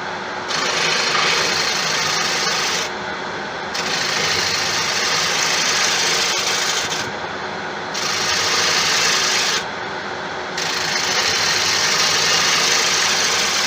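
Wood lathe running steadily with a gouge cutting a spinning tigerwood blank: four hissing passes with short breaks between them, taking down a slight bump in the outside shape.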